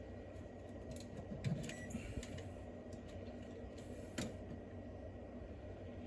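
A few light clicks and handling knocks from a DC clamp meter being set around the battery cable to measure parasitic draw, with the clearest sharp click just past four seconds, over a low steady hum.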